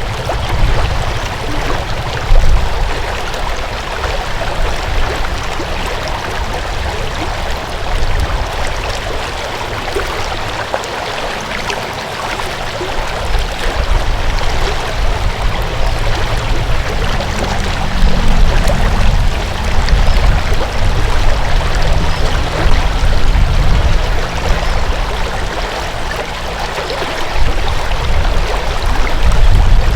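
Water flowing in a stream, a steady rushing, with a low rumble underneath that swells and fades and is stronger in the second half.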